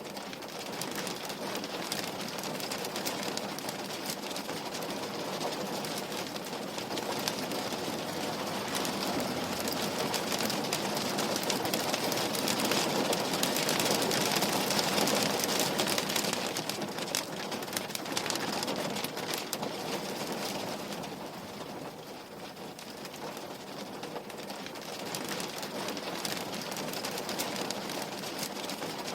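Steady rain pattering on a window pane, a dense hiss of drops that grows heavier toward the middle and eases off a little later.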